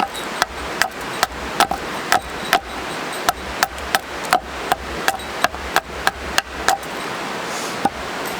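A quick, even series of sharp knocks, a tool striking wood about two and a half times a second. The knocks stop about seven seconds in, with one last knock near the end, over a steady background hiss.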